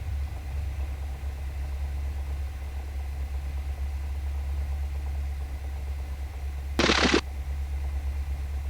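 Cessna 172's piston engine idling, a steady low drone in the cockpit. A short loud burst of sound cuts in for about half a second around seven seconds in.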